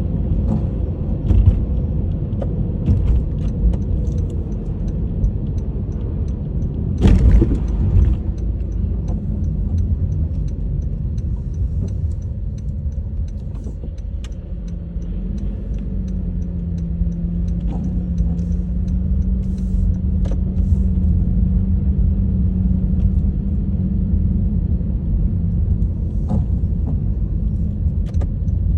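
Honda HR-V driving on a snowy road: a steady low rumble of tyre and engine noise, with a louder jolt about seven seconds in and a steady hum that comes in about halfway.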